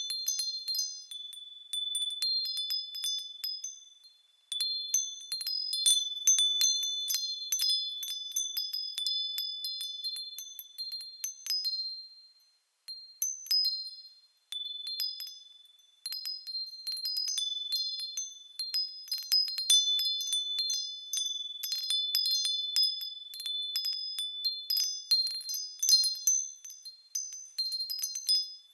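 Small high-pitched bells swinging and ringing in irregular clusters, several notes sounding together and dying away, with brief lulls about four and thirteen seconds in.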